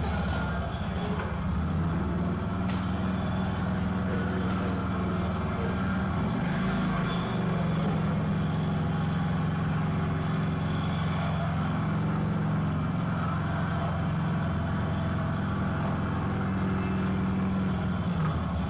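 Police motorcycle engine running at low speed on a slow-speed training course, its pitch shifting slightly as the rider works the throttle.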